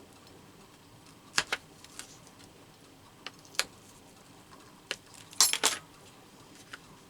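Scattered sharp metallic clicks and snaps from a hand hole punch and small metal brads being handled. The loudest are a quick double snap about a second and a half in and a close cluster about five and a half seconds in.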